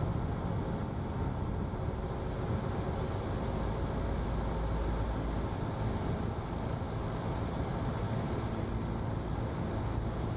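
Single-engine Cessna's piston engine and propeller droning steadily, heard from inside the cockpit, at reduced power on final approach.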